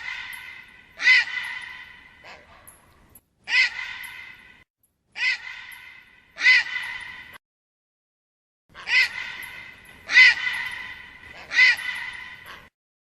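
A bird giving short, harsh cawing calls, about nine in a row at one- to one-and-a-half-second intervals, each trailing off in a long fading tail, with a pause of about a second and a half in the middle.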